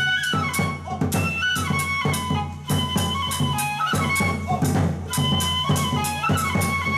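Bangaku music: a bamboo transverse flute plays a held, bending melody over a quick, steady beat of drum and small hand-cymbal strikes.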